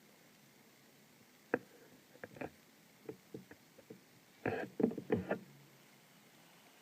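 A series of irregular light knocks and clicks from something being handled, sparse at first and busiest about four and a half to five and a half seconds in.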